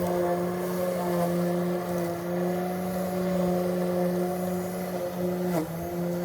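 Lawn mower running steadily with an even hum; its speed dips briefly about five and a half seconds in, then recovers.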